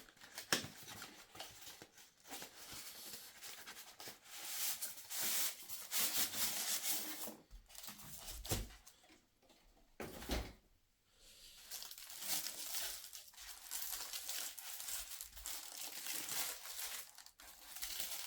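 Parcel packaging being opened by hand: paper and plastic wrapping tearing and crinkling in bursts, with short pauses and a couple of dull knocks.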